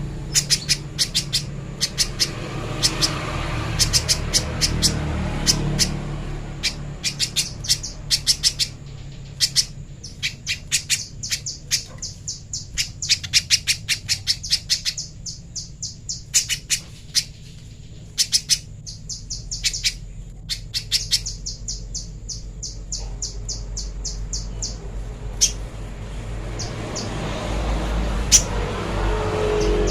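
Spiderhunter calling in fast runs of sharp, high chip notes, several notes a second, broken by short pauses between runs.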